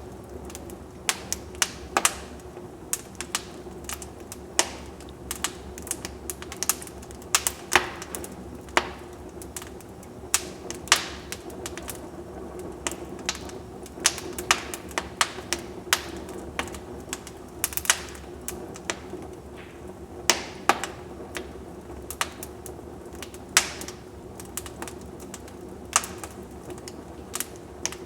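Wood fire burning in a fireplace and crackling: irregular sharp pops and snaps, a couple a second, over a steady low rush of the flames.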